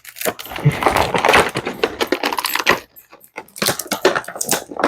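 Toy packaging being opened by hand: plastic and cardboard crackling and clicking in a dense run, with a short pause about three seconds in before another burst of crackling.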